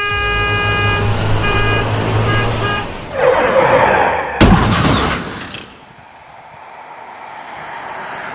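A truck horn blaring over a low engine rumble, breaking into a few short honks toward the three-second mark. A rushing whoosh then swells up, with a sharp bang about four and a half seconds in, and the sound dies away to a faint background.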